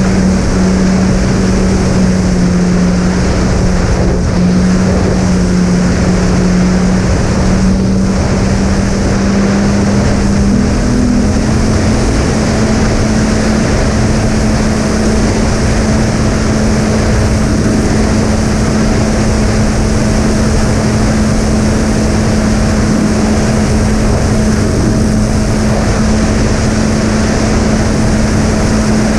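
Twin brushless motors with three-blade props running steadily in flight, a constant hum over rushing airflow; the hum rises a little in pitch about ten seconds in.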